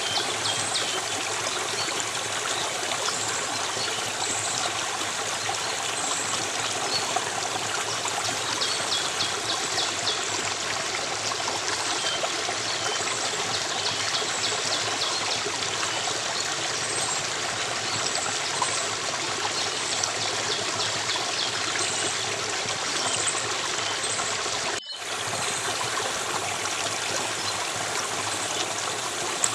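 Steady running water of a stream, trickling and splashing, with faint high chirps repeating over it. The sound cuts out for an instant about 25 seconds in, then resumes.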